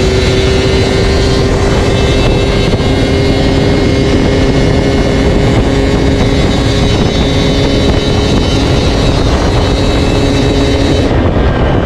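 Yamaha DT125's single-cylinder two-stroke engine running through an MCF expansion-chamber tune pipe, its exhaust note holding a steady pitch.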